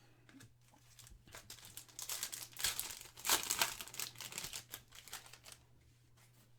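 Trading card pack wrapper crinkling as it is handled and opened. The crackle builds about a second and a half in, is loudest in the middle couple of seconds and dies down near the end, over a faint steady hum.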